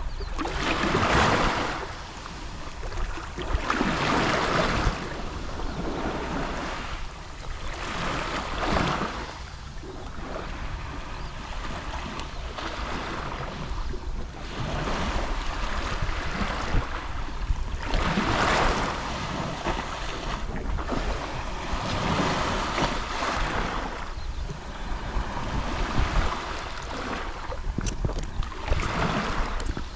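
Gentle sea waves lapping on the shore, each wash swelling and fading every few seconds, with a steady low rumble of wind on the microphone underneath.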